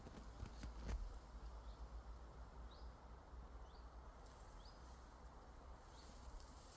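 Faint short rising chirps of a small bird, repeating about once a second, in a quiet forest over a low rumble. A few sharp clicks come in the first second.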